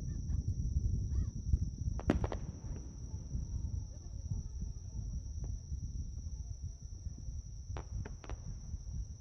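Insects, crickets or similar, keep up a steady high-pitched trill over a low background rumble. A few sharp clicks come through about two seconds in and again near the end.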